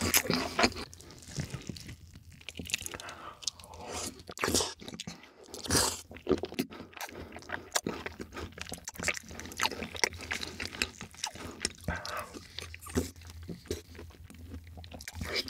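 Close-miked eating: crunching and chewing with bites, an irregular run of sharp crackles with a few louder bursts around the middle.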